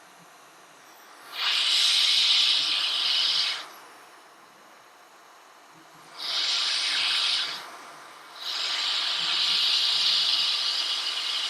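Hot air rework station blowing in three bursts of steady hissing airflow, the last one the longest, as the Tristar charging chip is heated on the phone's logic board.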